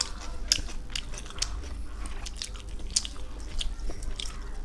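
A person biting into and chewing chicken biryani close to the microphone: wet mouth smacks and sharp little clicks scattered irregularly.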